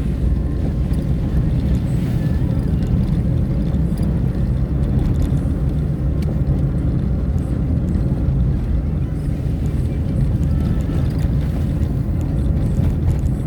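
Vehicle driving along a road: a steady low rumble of engine and road noise, even throughout.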